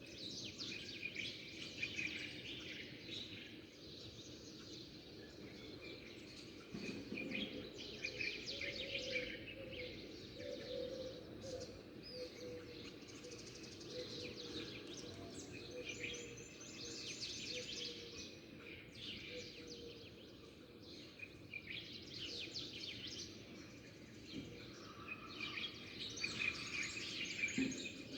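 Small songbirds chirping and twittering in dense bursts every few seconds, over a steady low background rumble.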